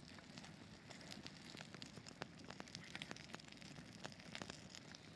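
Campfire crackling faintly, with scattered irregular pops and snaps.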